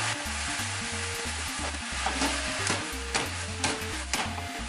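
Pork and bitter melon stir-frying in a frying pan: steady sizzling as the food is stirred with chopsticks. From about two seconds in, the chopsticks knock against the pan five times, about twice a second.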